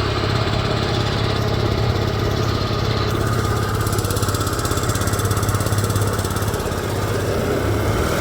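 Boat's outboard motor running at a steady speed, a low even drone.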